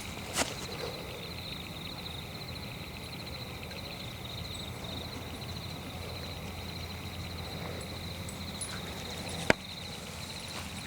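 Night ambience: insects, likely crickets, chirping steadily in a high, fast-pulsing trill over a low rumble. A sharp click comes about half a second in, and a louder sharp crack near the end.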